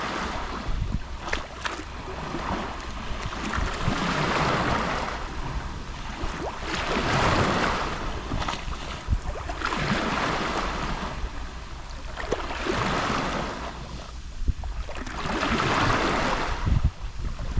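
Gentle Mediterranean sea waves lapping on the shore, each swell rising and falling away every few seconds with small splashes, over a low rumble of wind on the microphone.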